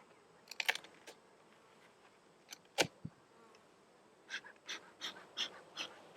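Honeybees buzzing at an open hive while wooden hive frames and a hive tool are handled, giving scattered clicks and scrapes. The loudest is a sharp knock nearly three seconds in, followed later by a quick run of about six scraping strokes.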